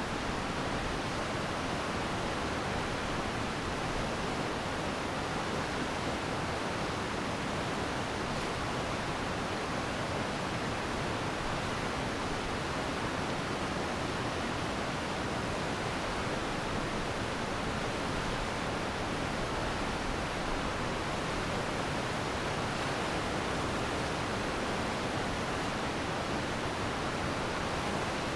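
Glacier meltwater stream flowing fast, a steady, even rushing of water.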